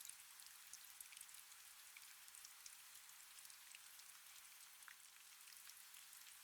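Soft, steady rain: a faint even hiss with scattered individual drops pattering.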